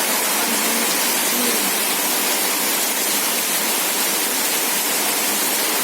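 Heavy rain: a steady, even rush of falling and running water.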